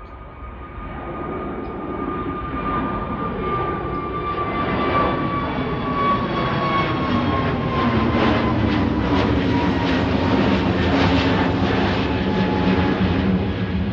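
Departing airliner's engines growing louder over several seconds as it approaches, then staying loud, with a high whine that slowly falls in pitch.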